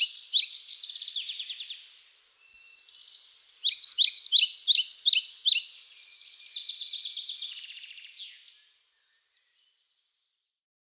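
A songbird singing: a run of quick down-slurred whistled notes ending in a fast trill, sung twice. The song stops abruptly near the end.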